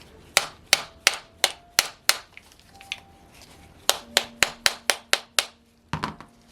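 Hammer taps on the metal parts of a Saito FA-100T model engine, knocking at a part that is stuck: a run of about six sharp strikes, a pause, then a quicker run of about eight, and one more near the end, some leaving a faint ring.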